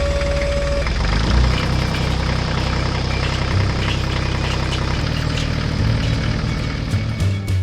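Tractor engine running steadily at low revs, a continuous low pulsing rumble.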